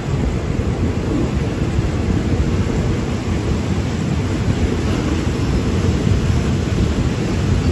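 Passenger train running along the track, a steady low rumble of the carriage and wheels on rails heard from inside a third-class carriage with open windows.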